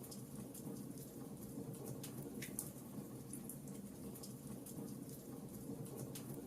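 Wood fire crackling: scattered sharp pops and snaps, a few a second, over a steady low hum.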